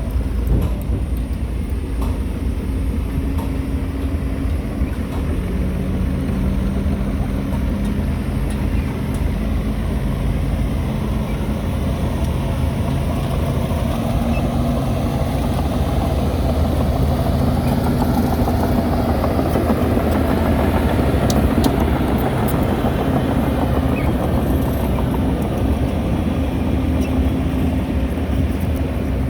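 Diesel engine of heavy earthmoving machinery running steadily under varying load. Its pitch shifts a little, it grows louder about two-thirds of the way through, and a few faint metallic clanks sound near then.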